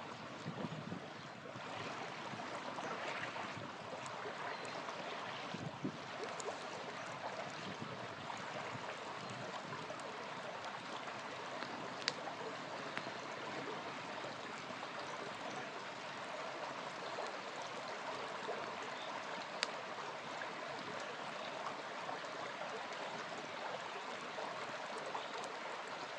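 Small river flowing steadily, with a campfire giving a few faint crackles and two sharper pops, one near the middle and one about three quarters through.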